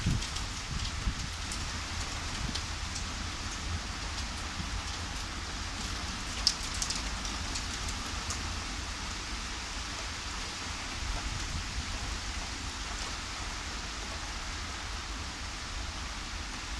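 Steady rain falling, with scattered sharp drops striking close by and one louder tap about six and a half seconds in, over a low rumble.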